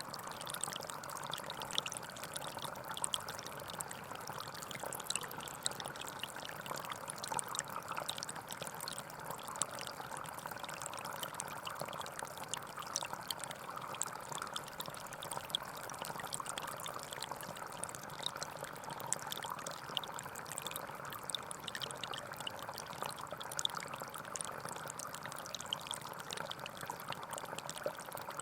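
Gentle forest stream flowing steadily, with a constant babble of water.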